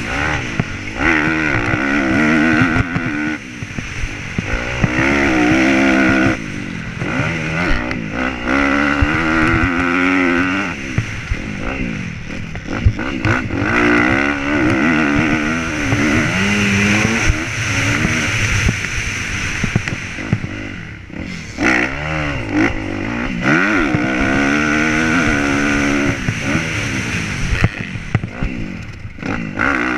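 Motocross bike engine, recorded close up from the bike, revving hard and falling off again and again as it accelerates up through the gears and shuts the throttle for corners and jumps.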